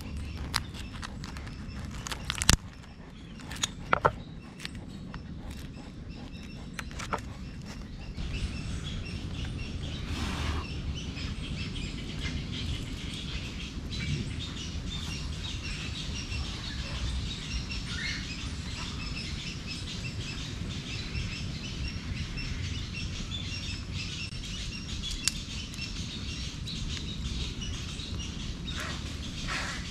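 Birds chirping steadily over a low, even outdoor rumble, with a few sharp clicks and knocks in the first seven seconds or so.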